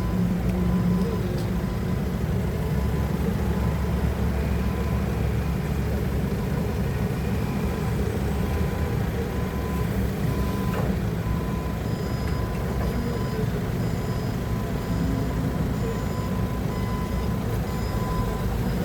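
Forklift engine running steadily, with a thin steady high tone over it. From about two-thirds of the way in, a short high beep repeats regularly.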